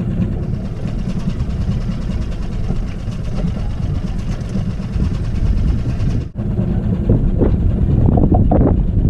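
Small boat engine running steadily at low speed, with a brief cut-out about six seconds in.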